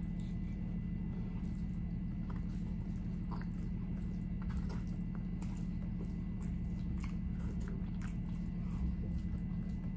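Close-miked chewing and mouth sounds of a woman eating a rice-and-steak burrito bowl, with scattered soft clicks and scrapes of a metal fork in the paper bowl, over a steady low hum.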